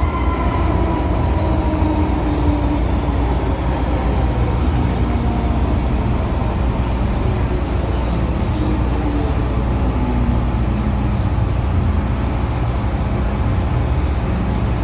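Steady low rumble inside a car of the first-generation MTR M-Train (A161/A162), with a faint falling whine fading out over the first few seconds.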